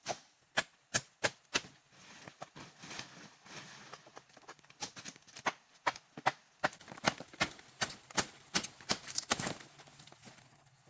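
A series of sharp knocks, about two or three a second, pausing for a couple of seconds of softer rustling before starting again.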